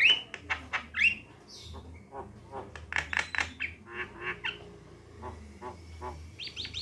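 Javan mynas calling: rapid harsh chattering notes, with two short upward-sliding whistles in the first second or so and a louder burst of chatter about three seconds in.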